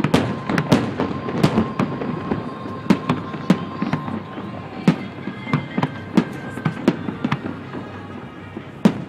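Fireworks and firecrackers going off all around in a rapid, irregular barrage of sharp bangs, several a second, some louder and closer than others.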